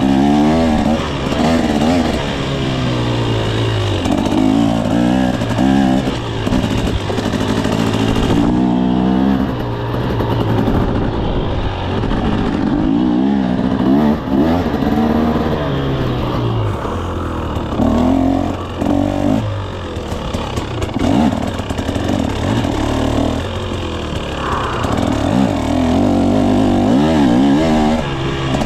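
2024 KTM 300 SX dirt bike's two-stroke engine revving up and down over and over as it is ridden, its pitch rising and falling every second or two.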